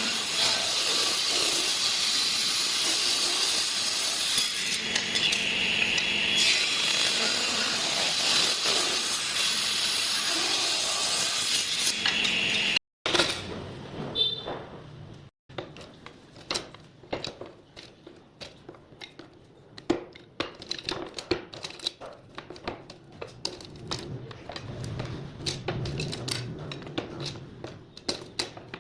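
Power tool working wood with a steady, loud, grating noise for about thirteen seconds. It stops abruptly, and the rest is a run of light, separate taps and clinks of small pieces being handled.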